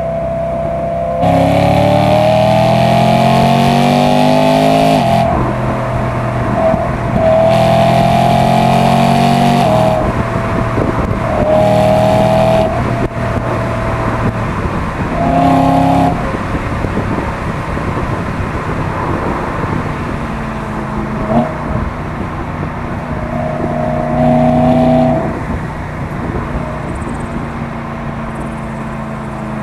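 BMW E92 M3's S65 naturally aspirated V8 through an M Performance exhaust, heard from outside the car while driving. About five hard accelerations, each with the engine note climbing in pitch and cutting off abruptly, with lower, steadier running between them.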